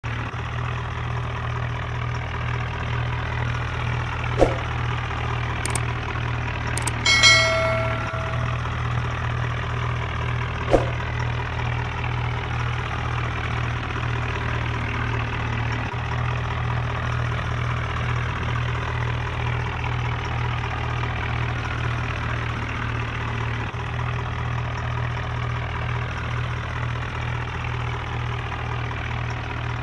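Diesel engine idling steadily, with a low, evenly pulsing note. A few sharp clicks come through it, and a brief higher-pitched tone sounds about seven seconds in.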